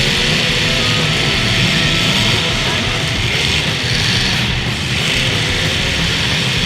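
Demolition derby cars' engines running together, mixed with loud rock music.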